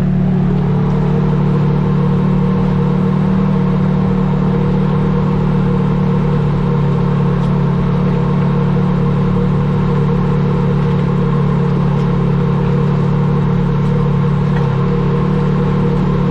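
A motor running steadily, a continuous low drone whose pitch rises slightly about a second in and then holds even.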